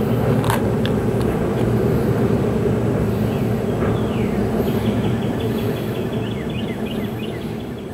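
Diesel freight train rumbling steadily, out of sight of the bridge, with faint bird chirps in the middle. The rumble fades away near the end.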